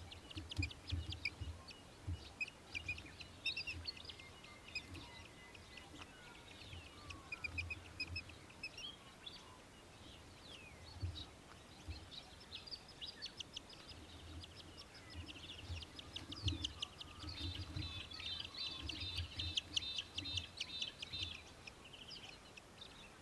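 Australian Hobby (little falcon) calling in rapid chattering series of high repeated notes, with a long, dense run near the end, over low thuds.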